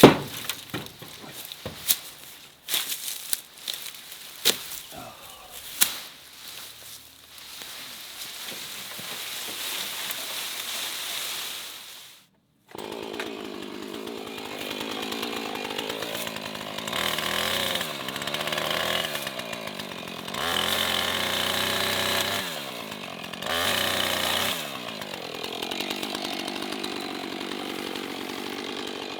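Sharp snaps and knocks at first, then from about halfway a chainsaw running, revving up in three bursts as it cuts into hawthorn growth before settling back to a steady run.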